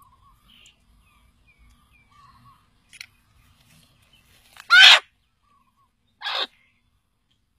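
Two loud, harsh bird calls about a second and a half apart, the first the louder, with faint twittering of small birds before them.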